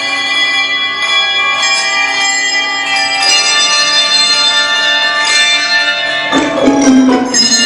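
Handbell choir playing, many bells ringing and sustaining over one another. A louder, lower group of notes comes in about six seconds in.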